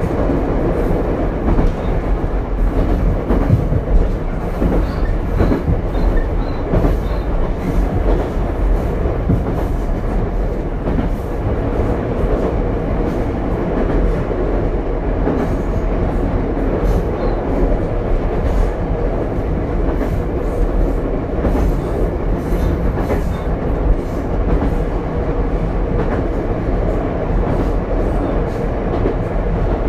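Running noise inside the Ichibata Electric Railway 7000-series railcar 7001 under way: a steady rumble with irregular clicks as the wheels pass over rail joints.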